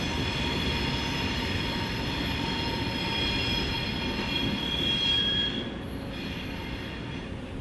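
Train wheels squealing against the rail as the train rounds a curve: a steady high-pitched squeal over the low rumble of the passing cars. About two thirds of the way through, the squeal swells briefly, then fades, and the sound drops to a quieter rumble.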